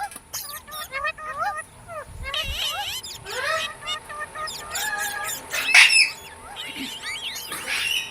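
Green pet parrot chirping and squawking in quick, short, gliding calls, with a loud squawk about six seconds in.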